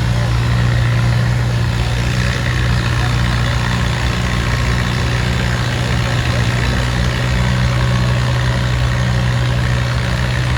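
Antique tractor engine idling steadily with a constant low hum.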